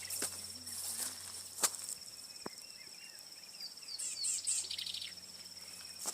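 Outdoor farm ambience: insects keep up a steady high-pitched drone while birds give a few short chirps in the middle, with occasional soft clicks.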